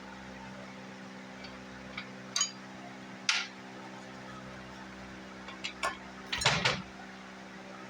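Scattered metallic clinks and knocks of hand tools against engine parts, a few single ones and then a louder cluster of quick clinks near the end, over a steady low hum.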